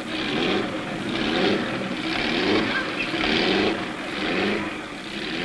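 Engine of the 20-litre Metallurgique vintage car running, its sound swelling and fading about once a second.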